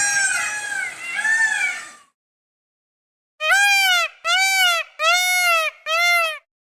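Peacock calling: a run of overlapping arched calls, then after a pause of about a second and a half, four short calls in quick succession, each rising and falling in pitch.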